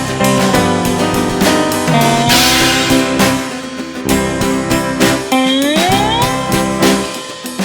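Band's instrumental passage: guitars with drums and a cymbal crash, one guitar note sliding upward about five and a half seconds in.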